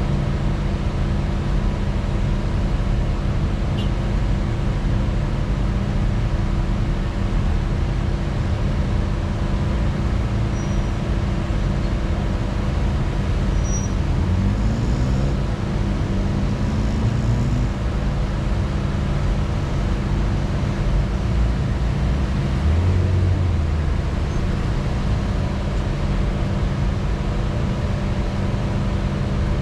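Motor vehicle driving, its engine running steadily under heavy road and drive noise, with a few rising engine notes about halfway through.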